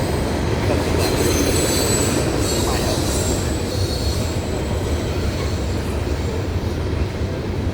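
Loaded coal gondolas and hoppers of a freight train rolling past, a steady heavy rumble of wheels on rail with a thin, faint wheel squeal coming and going.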